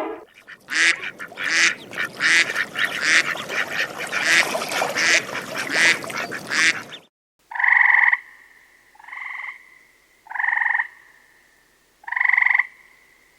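Duck quacking in a quick, even run of calls. After a sudden cut, a frog croaks four times about a second and a half apart.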